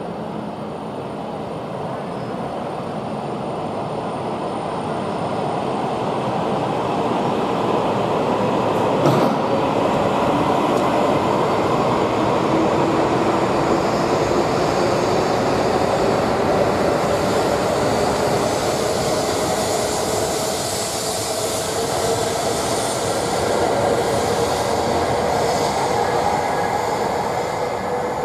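E5 series Shinkansen accelerating away from the platform: a dense running rumble that builds in loudness, with its motor whine rising slowly in pitch as it gathers speed. One sharp click about nine seconds in.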